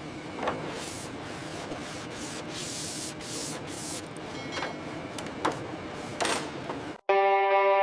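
Repeated rubbing strokes over a steady hiss, like work on a surface. Near the end it cuts off abruptly to a steady pitched tone.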